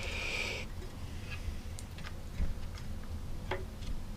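Small metal parts of a scroll saw's blade head being handled during disassembly: a short scraping rustle at the start, then a few light, scattered clicks.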